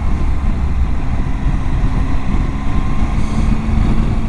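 Motorcycle engine running at road speed with heavy low wind rumble on the helmet microphone; the engine's note rises slightly about halfway through as the bike picks up speed.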